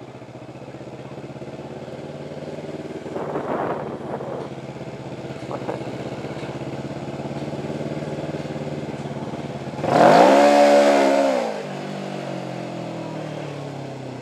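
Kawasaki Ninja motorcycle engine running while riding, its note slowly climbing. About ten seconds in it revs sharply up and back down, the loudest moment, then the engine note falls away as it slows.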